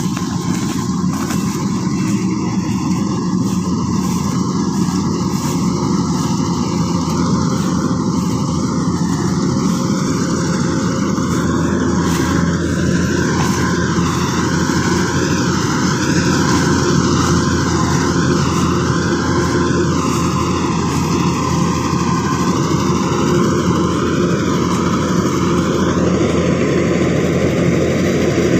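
Engine of a rice harvesting machine running steadily and loudly, with no pauses or changes in speed.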